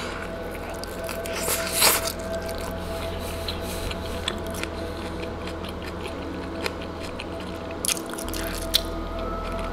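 Biting into and chewing a chicken tortilla wrap: soft wet squishing and crackling mouth sounds, with the loudest bite a little under two seconds in and a few more sharp ticks near the end. Steady background music plays underneath.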